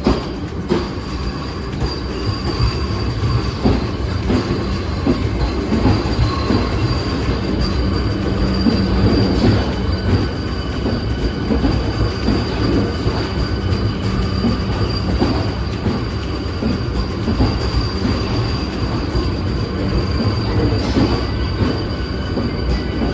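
Vande Bharat Express electric trainset moving on the rails: a steady low rumble of wheels and running gear with scattered knocks and a thin, steady high-pitched tone.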